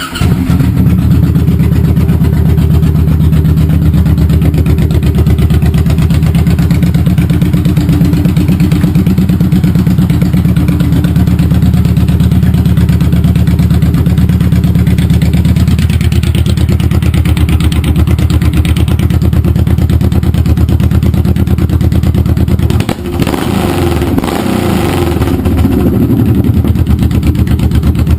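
Honda VTX1800F's V-twin engine through a 3-inch Road Burner exhaust with the baffles removed, starting up loud and running steadily. About 23 seconds in it drops off briefly, then revs rise and fall a few times before it settles again.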